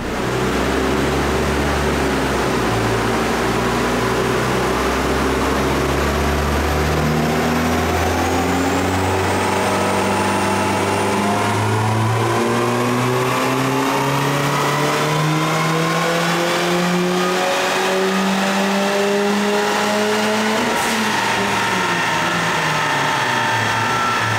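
Turbocharged 1.8-litre four-cylinder engine of a VW Golf 3 pulling under load on a chassis dyno, its revs climbing steadily for about twenty seconds, then falling away near the end as the throttle closes.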